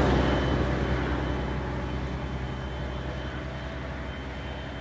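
Bus engine running, a low steady drone that grows steadily fainter.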